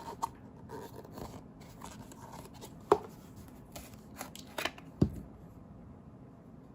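A plastic slime container and its packaging being handled and opened: soft rustling with scattered clicks, the sharpest about three seconds in and again about five seconds in.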